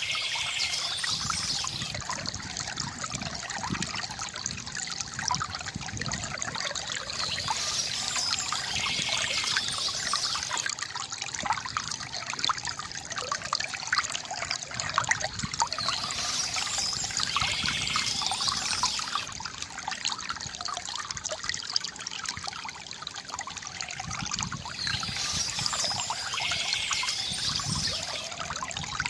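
Water pouring and trickling from a bamboo fountain spout into a basin, a steady gurgling splash. Birds chirp in short bursts about every eight to nine seconds.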